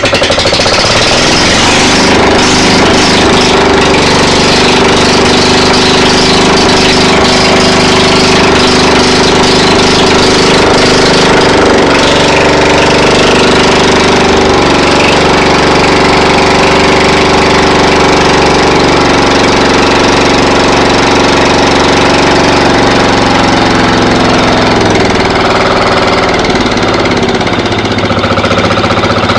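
Yanmar 9 hp single-cylinder air-cooled diesel throttled up from a slow idle to high speed and held there, running loud and steady. Near the end it is throttled back down and the pitch falls.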